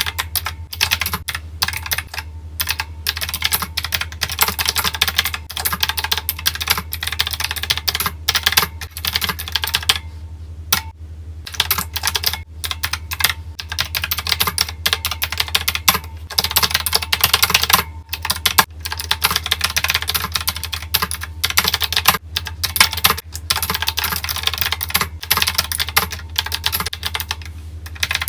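Rapid, continuous typing on a keyboard, in fast irregular runs of keystrokes broken by a few short pauses.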